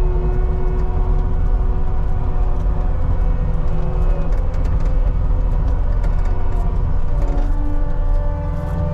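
CAT 279D compact track loader's diesel engine running steadily under load while pushing dirt. The engine note drops about seven seconds in.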